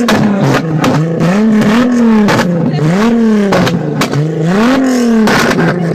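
VW Corrado engine with a straight-pipe exhaust, revved in quick repeated blips about once a second, its pitch rising and falling each time, with sharp crackles from the open exhaust.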